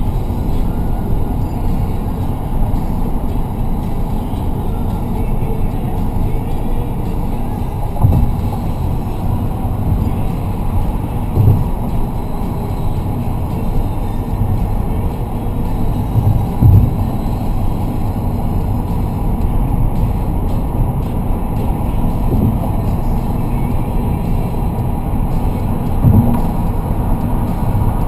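Steady low rumble of road noise inside a moving vehicle, with a few short thumps from bumps.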